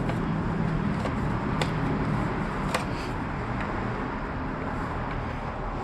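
Steady background hum and rumble, with a few sharp clicks, about one and a half and three seconds in, from screws and plastic fairing parts being handled.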